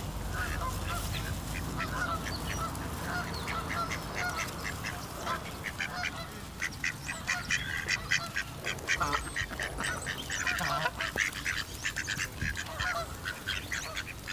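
Birds calling: a dense run of short, rapid calls that grows busier from about six seconds in.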